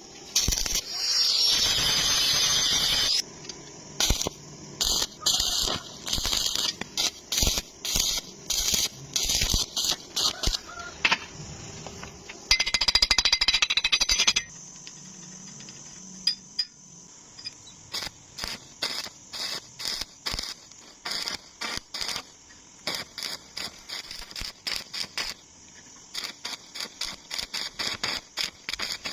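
Stick-welding arc crackling in many short bursts as the arc is struck and broken again and again to fill holes in square tube and pipe, with two longer continuous runs of about two seconds each.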